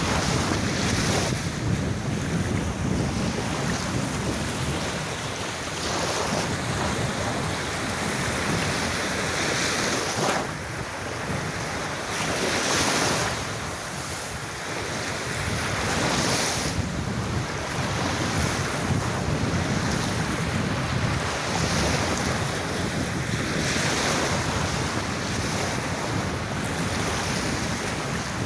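Sea waves washing onto a beach, the surf swelling and falling back every few seconds, with wind noise on the microphone.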